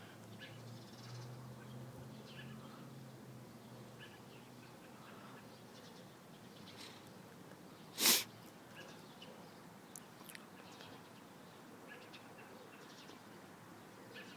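Faint, scattered chirps from a small bird being handled, with light handling noise. About eight seconds in comes one short, loud rush of noise, the loudest thing heard.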